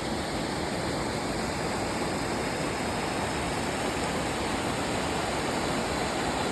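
Waterfall's rushing water: a steady, unbroken roar of falling water.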